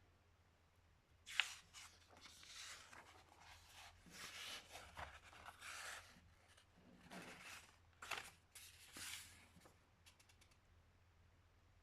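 A sheet of paper being handled and folded by hand: a run of rustling, rubbing strokes as it is creased, with one sharp crisp crackle about a second and a half in.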